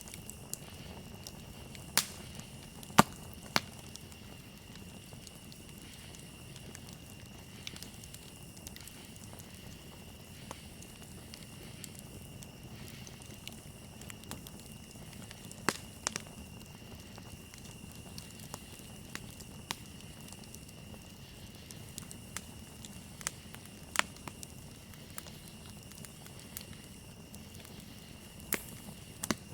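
Campfire crackling, with scattered sharp pops every few seconds, the loudest about 3 seconds in. Under it runs a steady high trill of crickets.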